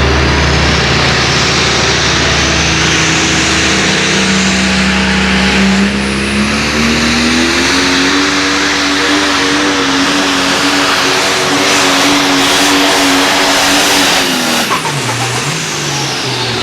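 Light pro stock pulling tractor's turbocharged diesel engine under full load on a pull. Its pitch climbs through the first half, holds high and steady, then drops off sharply near the end as the throttle is let off, falling back to an uneven idle.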